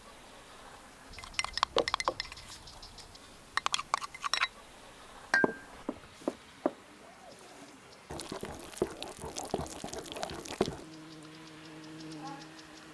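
Kitchen ware clinking and tapping in two short clusters, then one bright ringing clink about five seconds in. Next comes about three seconds of a rushing sound like pouring, and a faint steady tone near the end.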